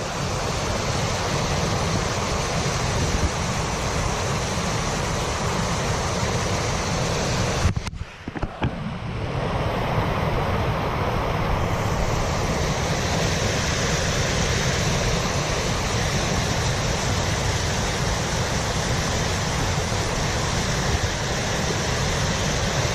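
Steady rushing noise, heaviest at the low end, like wind buffeting the microphone. It drops away sharply for about a second around eight seconds in, then resumes.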